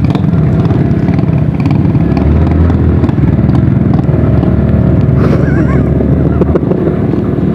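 Motorcycle engine running steadily, a continuous low drone.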